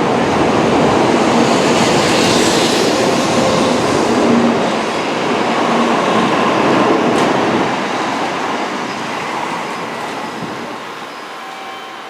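A Tokaido Shinkansen train running along the station platform, a loud rushing rail noise with some clatter from the wheels. Over the last few seconds it fades steadily.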